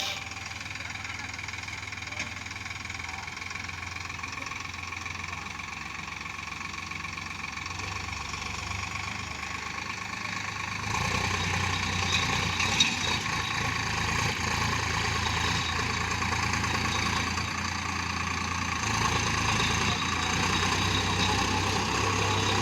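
Sonalika tractor's diesel engine running steadily, getting louder about halfway through.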